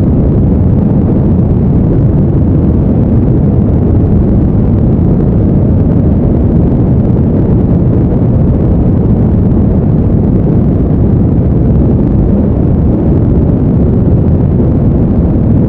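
Steady, deep, even noise with no rhythm or changes: a brown-noise sleep sound.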